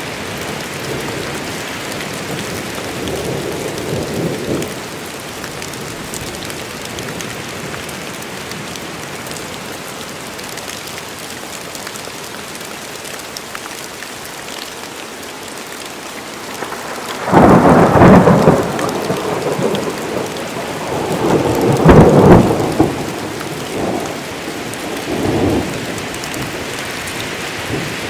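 Steady rain falling in a forest. A sudden loud thunderclap comes about 17 seconds in, then more thunder rumbles, with a second loud peak about five seconds later and smaller rumbles after it.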